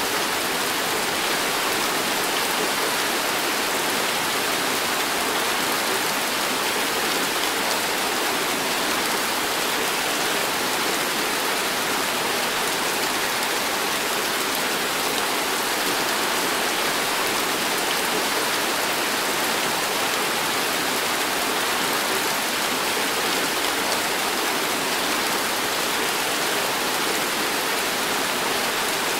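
Heavy tropical rain pouring down in a steady, dense hiss that does not let up.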